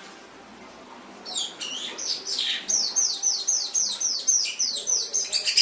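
Domestic canary singing. After about a second of quiet it starts with a few high notes, then runs into a fast trill of repeated downward-sweeping notes, about five a second, ending in a dense buzzy roll.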